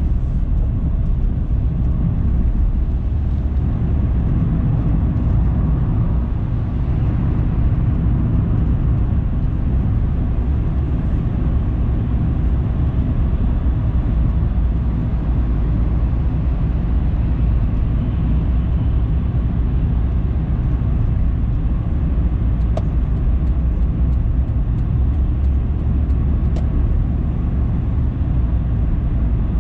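Car driving: a steady low rumble of engine and tyre noise on the road.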